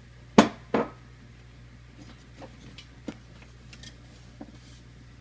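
Kitchenware knocking: two sharp clanks close together, then several light clicks and taps, as sugar is measured out to go into a pan of milk.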